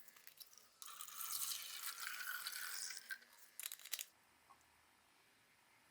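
Liquid, likely rust remover, being poured into a plastic bottle for about two seconds, with a few light clicks and knocks before and after.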